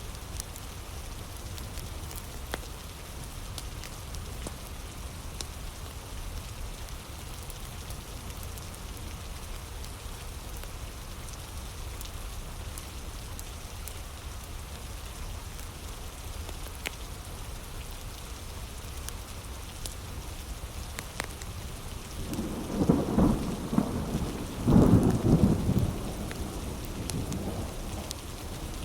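Heavy rain falling steadily, with occasional sharp crackles from a wood fire. About 22 seconds in, thunder rolls in two loud low swells before fading back under the rain.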